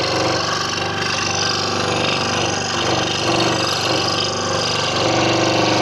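Scroll saw running steadily with a constant hum, its blade cutting through a wooden puzzle board.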